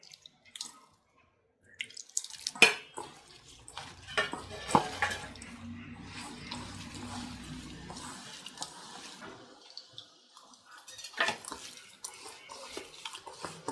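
Water poured into a bowl of chilli, garlic and ginger masala for a few seconds in the middle, with a spoon knocking and clinking against the bowl before and after as the paste is mixed.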